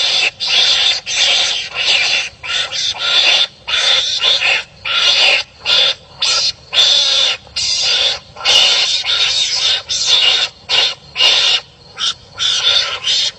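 Harsh, raspy animal calls in quick back-to-back bursts, about one or two a second, like animals squabbling.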